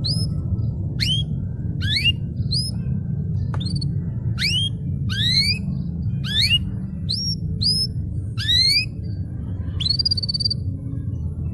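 Domestic canary singing a string of short rising chirps, about one a second, ending in a longer held wavering note, over a steady low hum.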